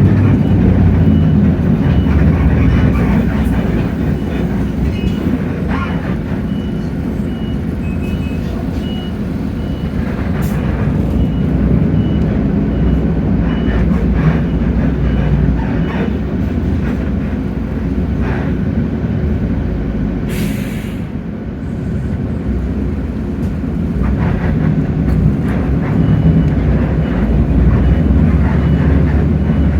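A Hino J08E-VN inline-six diesel engine is driving a city bus, heard from inside the bus, its level easing down and building up again with the throttle. A faint high beep repeats through much of it, and a short hiss of air comes about two-thirds through.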